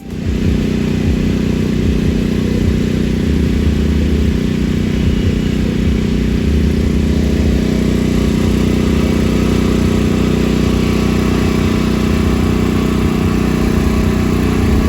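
A motor or engine running steadily, a loud low hum.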